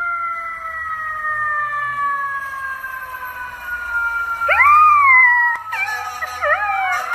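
A dog howling along with a long, slowly falling siren-like wail. From about four and a half seconds the howls come in, and they waver up and down, overlapping, near the end.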